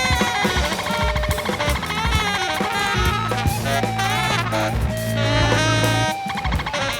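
Jazz sextet playing live: saxophone and trumpet lines over drum kit, guitar, bass and Fender Rhodes, with a brief dip in the sound about six seconds in.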